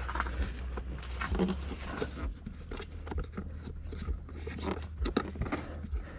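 Hands working small plastic car parts: a run of irregular clicks, scrapes and rattles as a sensor is pushed into its clip mount, over a steady low hum.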